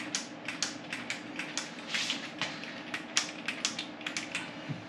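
Hand socket ratchet clicking as it turns a seat-mounting bolt, about four clicks a second in an uneven run.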